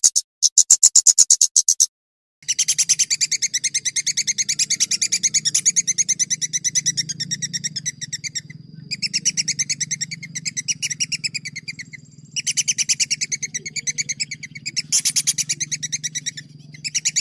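Songbird singing fast rolling trills of rapidly repeated high notes, in bursts of a few seconds broken by short pauses, over a steady low hum.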